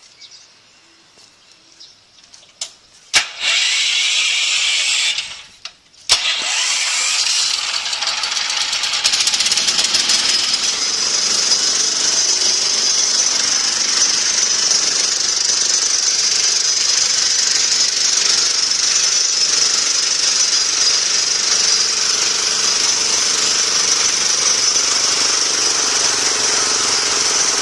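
Diesel engine of a trolley-mounted water pump starting up: a sharp click and a loud hiss about three seconds in, then the engine catches around six seconds and runs steadily with a dense clatter.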